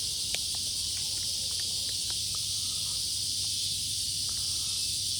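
Steady high-pitched chorus of insects, with a few faint clicks scattered through it.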